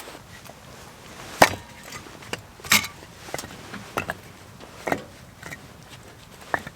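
A series of sharp, irregularly spaced wooden knocks or chops, about six strong strikes with a few lighter ones between, the loudest about one and a half seconds in.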